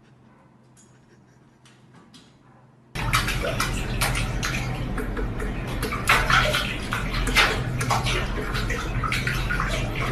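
Water splashing and sloshing, loud, with irregular sharp splashes, starting suddenly about three seconds in after a quiet stretch with a few faint clicks.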